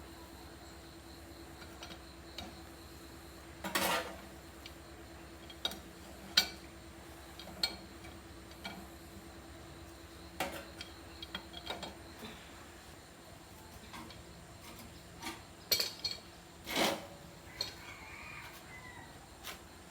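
Irregular metallic clinks and knocks of tools and steel parts being handled during metalwork repair on a banana cutter frame, a dozen or so, the loudest about 4 s in and twice near the 16-second mark, over a faint steady hum.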